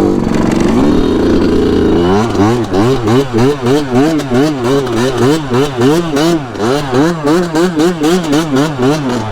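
2019 Yamaha YZ125 single-cylinder two-stroke engine, held at high revs for about two seconds, then revved up and down in an even rhythm about twice a second.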